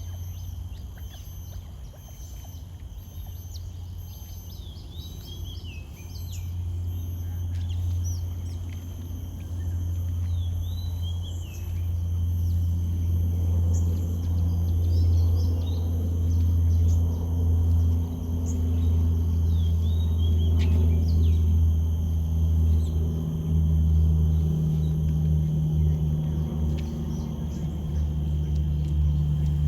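Birds calling in short, high, sweeping chirps scattered through the first two-thirds, over a steady low hum that grows louder toward the end.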